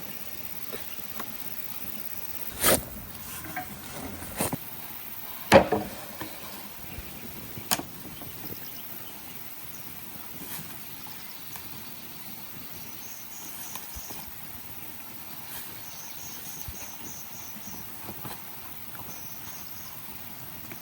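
A few sharp knocks in the first eight seconds, the loudest about halfway through, over a steady outdoor hiss. Later come short bursts of faint, rapid, high-pitched chirping, like insects.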